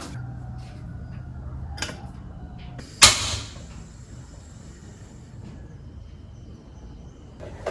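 Household knocks: one loud sharp bang about three seconds in, with a fainter click before it and another near the end, over a low steady hum.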